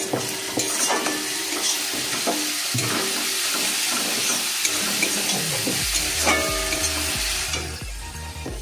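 Food frying in hot oil: a steady sizzling hiss that starts abruptly and cuts off shortly before the end, with a few light clicks in it.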